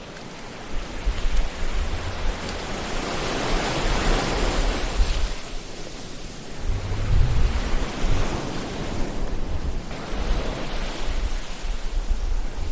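Ocean surf: waves rush in and wash back in long swells, rising to a peak twice, with a low rumble of wind beneath.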